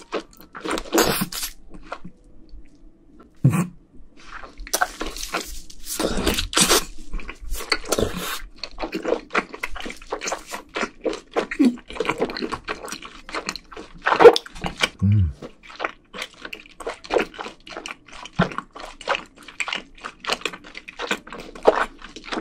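Close-miked wet chewing of a mouthful of grilled Korean hanwoo beef sirloin: quick moist mouth clicks and smacks, several a second, with a few louder smacks along the way.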